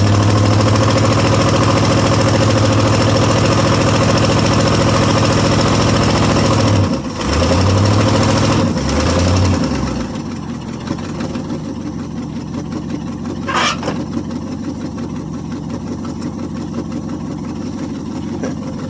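International 345 V8 in a 1973 International 1210 pickup running hard under load as the truck struggles to pull forward out of a hole, a wheel partly seized. The engine note dips briefly twice, then drops to a lower, quieter run about ten seconds in, with a brief high squeal a few seconds later.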